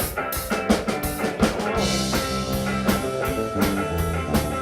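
Live band playing an instrumental passage between sung lines, with a drum kit keeping a steady beat under guitar.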